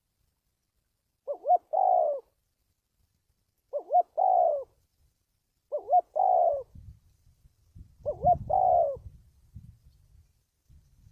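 Spotted dove cooing: four calls about two seconds apart, each a quick two-note opening followed by a longer coo.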